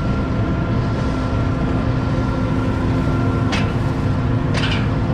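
Heavy diesel engine of harvest machinery running steadily at a constant pitch. Two short hisses come in the second half.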